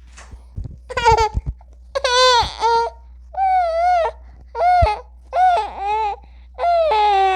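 Infant crying: a string of high-pitched wails, each about half a second to a second long, with short breaks for breath between them. The crying starts with a few short, choppy catches about a second in.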